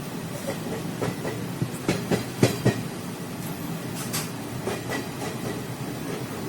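Passenger train running along the track: a steady rumble with irregular clacks of the wheels over rail joints, a quick run of louder knocks about two seconds in.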